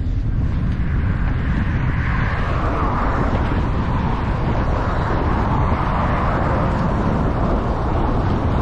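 Steady road noise: traffic running by, with low wind rumble on the microphone.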